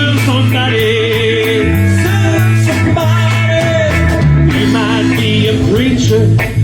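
Live rock band music: electric guitar lines over a steady bass line and drum beat, with no lyrics sung.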